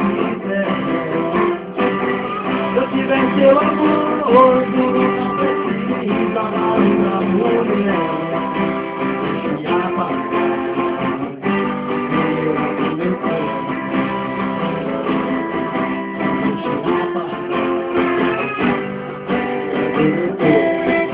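Guitar-led music: an instrumental passage of a Portuguese-language love song, without singing.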